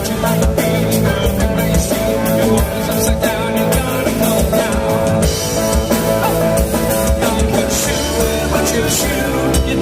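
Live rock band playing a song with drum kit and electric guitar, and a singing voice.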